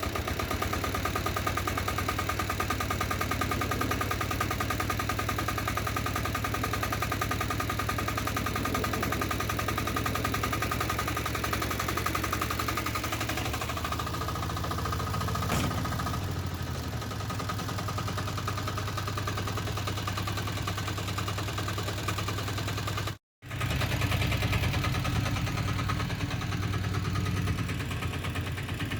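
Diesel walk-behind tractor engine running steadily. The sound cuts out briefly about 23 seconds in, then resumes with a deeper tone.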